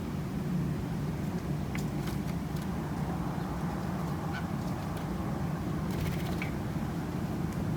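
Steady low outdoor rumble with a few faint short clicks and chirps scattered through the middle.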